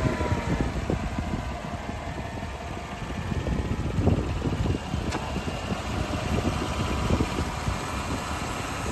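2019 Chevrolet Tahoe's 5.3-litre V8 idling steadily just after being started.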